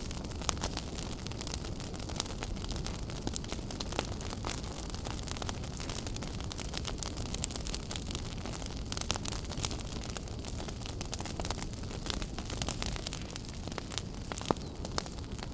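Wood fire in a fireplace crackling, a steady low rumble of burning with many small sharp snaps and a few louder pops.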